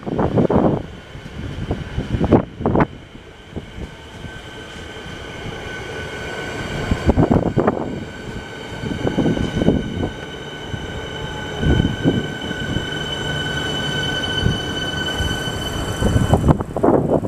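Train passing on the rails, with irregular heavy thuds and rumble of wheels over the track. Through the middle a steady high-pitched wheel squeal holds for several seconds.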